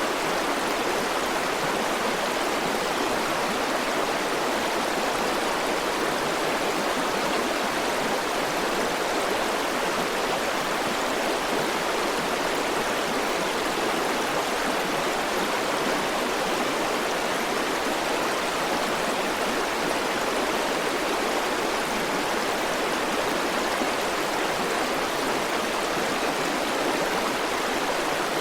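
River water flowing over rocks in a steady rushing wash, even and unchanging.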